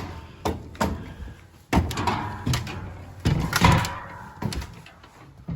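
Irregular knocks and thumps, about eight of them, some followed by a short scraping rustle, as someone climbs into an attic and moves about on its floor. The loudest come around three and a half seconds in.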